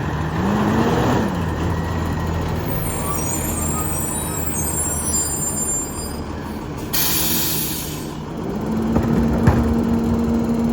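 Peterbilt 348 rear-loader garbage truck's diesel engine running. It revs up and back down about a second in, gives a sharp hiss of air brakes about seven seconds in, and then holds a steady, higher engine speed.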